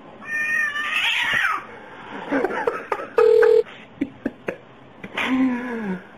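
Domestic cat yowling and meowing at its reflection in a mirror, with drawn-out gliding calls, the last one falling in pitch. A short, loud, flat beep-like tone midway, and a few sharp taps a little after it.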